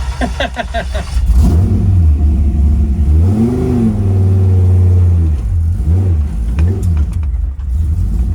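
Dodge Viper race car's V10 engine being cranked and catching about a second in, given a rev that rises and falls, then running rough and uneven with throttle blips as it struggles to hold idle: the engine is cold and finicky to idle on a new tune.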